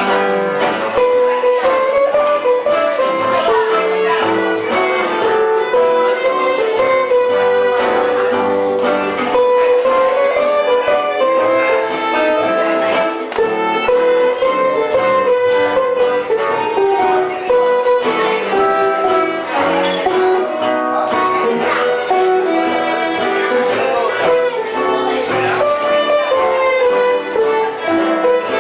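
Live gypsy-style band music: a violin carrying a sliding melody over strummed and plucked guitar.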